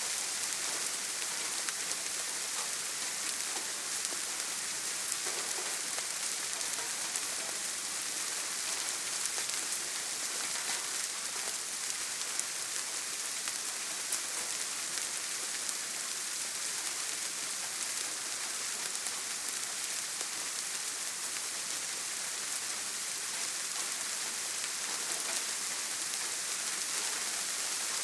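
Heavy rain falling steadily on a tin roof: a dense, even hiss of countless small drop ticks, with no thunder.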